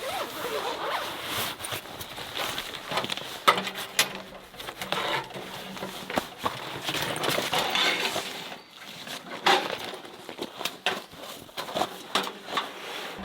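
Camping gear being handled: irregular clicks, knocks and light metallic clinks over rustling.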